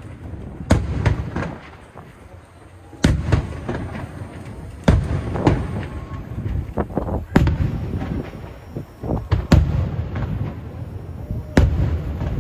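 Aerial fireworks shells bursting overhead: a run of loud sharp bangs, one every second or two, each followed by a long low rumble that runs into the next.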